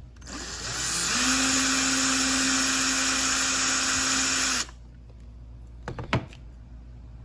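Small electric drill spinning up, running steadily at one pitch for about three and a half seconds, then stopping suddenly; a few light clicks follow about a second later.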